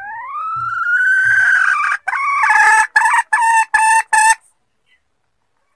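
Hen junglefowl lure call: one long rising note of about two seconds, then four short clipped notes, loud and clear.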